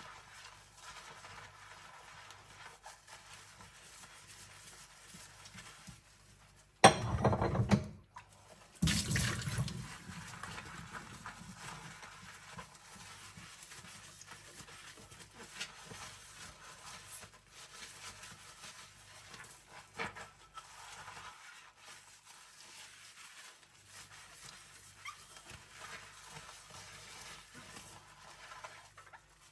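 Hand-washing ceramic bowls at a kitchen sink: quiet scrubbing with a few faint clinks, broken by two short, loud bursts of water about seven and nine seconds in.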